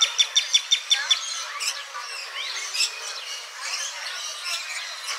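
Birds chirping and calling: a quick run of sharp, evenly repeated chirps, about six a second, stops about a second in, followed by scattered calls from several birds.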